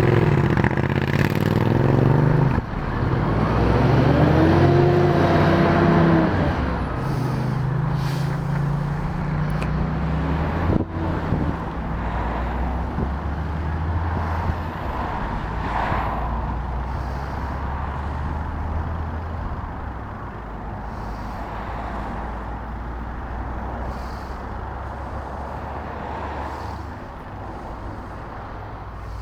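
Road traffic: vehicle engines running and passing by. About four seconds in, one engine's pitch rises and then falls, and the sound grows quieter over the last ten seconds or so.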